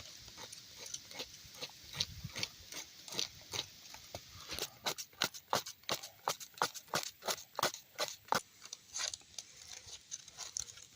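Birch bark being scraped by hand into fine tinder dust. The quick, repeated scraping strokes come about three a second and are busiest from the middle to near the end.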